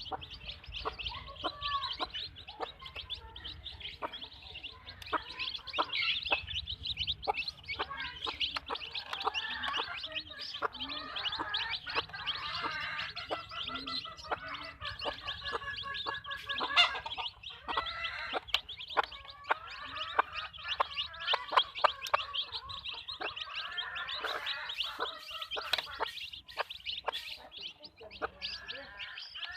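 Backyard hens clucking, many birds calling over one another in a steady stream of short clucks.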